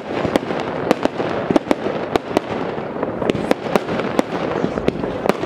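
Fireworks going off in quick succession: a dense crackle of bursting stars with sharp, irregular pops and bangs, about three a second.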